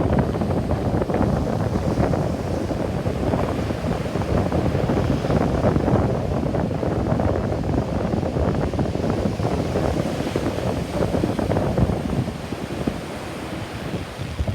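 Wind buffeting the microphone over the wash of surf on a beach, easing a little near the end.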